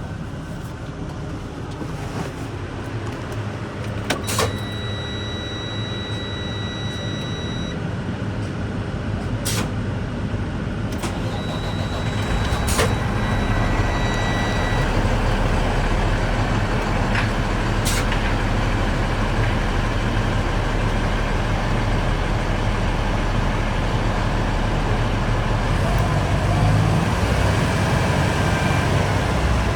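Hydro excavation vacuum truck running with a steady low hum, getting louder about twelve seconds in. A few sharp clicks and some high, steady tones lasting a few seconds each sound over it.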